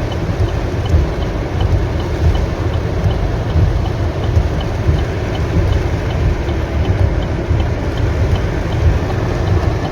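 Steady low rumble of a city street in heavy rain, with traffic and rain noise heavy on the microphone. A faint high tick repeats about three times a second.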